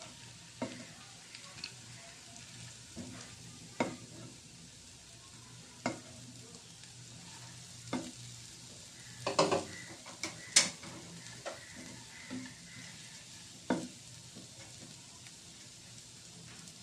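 A spoon stirring and scraping in a pan of lachha (fried vermicelli), with sharp clicks and taps against the pan every second or two and a busier run of clinks about two-thirds of the way in, over a faint steady background hum.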